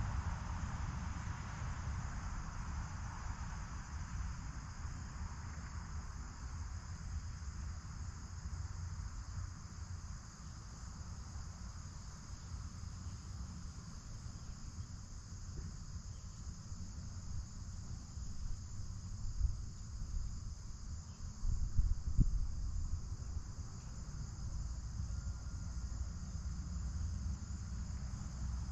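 Steady late-summer insect chorus: a continuous high-pitched trilling with no breaks, over a low rumble. A few dull thumps stand out about twenty seconds in.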